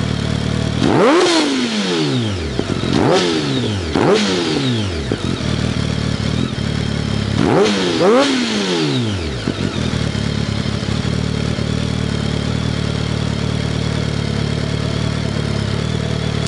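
2007 BMW K1200R's inline four-cylinder engine through a full Akrapovic exhaust, idling with quick throttle blips: revs shoot up and fall straight back, once about a second in, twice around three to four seconds, and twice around eight seconds, then it settles back to a steady idle.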